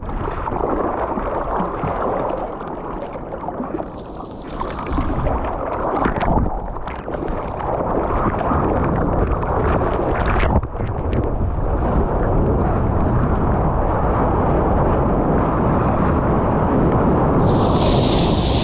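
Water and wind rushing over a GoPro's microphone in the surf: a steady, loud rush of noise broken by a few sharp splashes, with a brighter hissing splash near the end.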